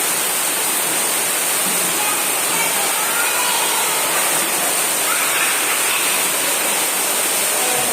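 Steady rush of running water at a swimming pool, with faint distant voices.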